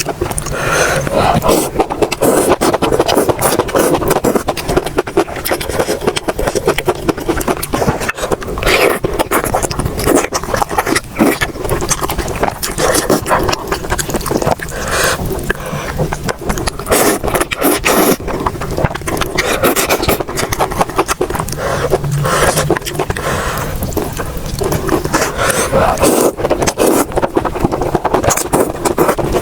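Close-miked eating sounds: chewing food, with a dense, irregular run of small wet clicks and crunches.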